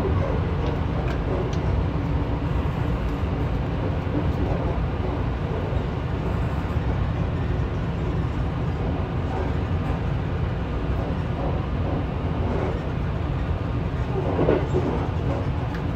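Steady low rumble of the Sunrise Seto sleeper train, a 285-series electric multiple unit, running on the line, heard from inside the carriage, with a few faint ticks.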